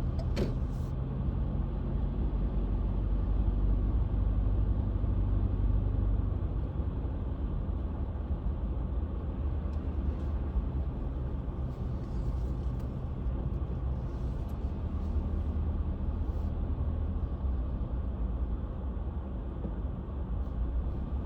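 Car engine and tyre noise heard from inside the cabin while driving, a steady low rumble and hum. A single click about half a second in.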